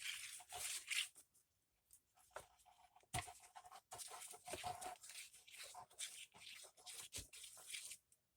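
Paper rustling and scraping as junk journal pages and pieces are handled on a craft table, with a held squeaky note in the middle.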